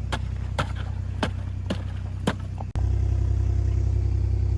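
Ice on a livestock water trough being struck and broken: five sharp knocks, about two a second, over an idling vehicle engine. The knocks stop at a sudden cut just past halfway, after which only the engine is heard, louder.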